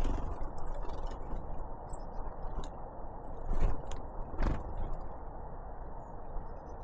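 A few sharp knocks and rattles close to the microphone, the loudest about three and a half and four and a half seconds in, over a steady rushing noise, with a short high bird chirp about two seconds in.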